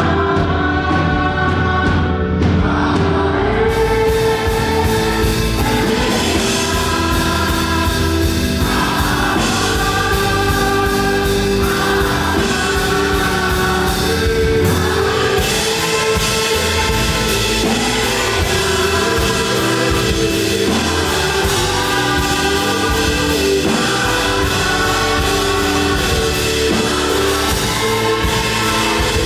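Live up-tempo gospel worship music: a group of singers over a full band, loud and steady, with the band thickening about four seconds in.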